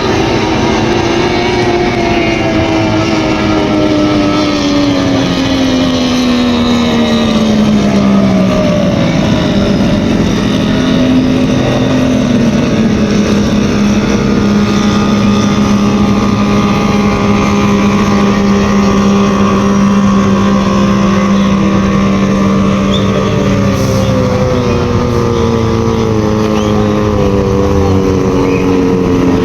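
Racing powerboat engines running during a pre-race warm-up. The engine note falls over the first several seconds and then holds steady, and a second engine's note falls again near the end.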